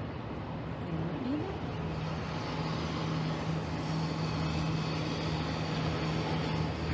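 Street sweeper running: a steady engine hum over a broad mechanical rushing noise, growing a little louder.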